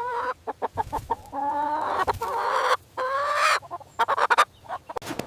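A chicken clucking and calling: short sharp clucks between several drawn-out calls that rise in pitch.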